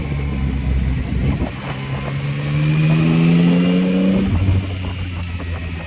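Yamaha MT-09's three-cylinder engine under acceleration. After a brief break about a second and a half in, its note climbs steadily in pitch for about two seconds, then drops suddenly to a lower, steady note.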